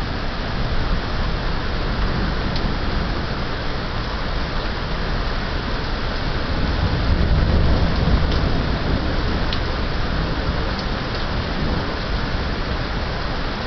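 Heavy thunderstorm rain pouring steadily, with a low rumble of thunder swelling up about halfway through and fading again a few seconds later.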